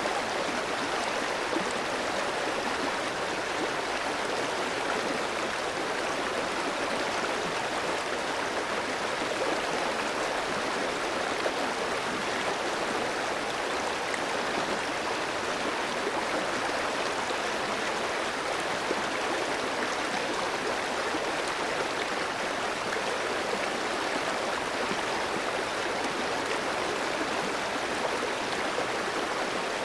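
Clear stream flowing over rocks: a steady rush of running water with light gurgling.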